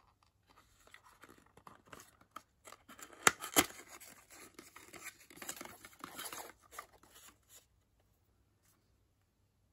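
Product packaging being handled and opened by hand: rustling and tearing with scattered clicks, including two loud sharp clicks about three and a half seconds in. The sounds stop well before the end.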